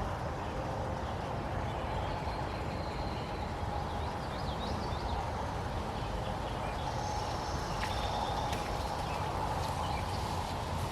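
A river running steadily, high after rain, with a few faint bird calls over it.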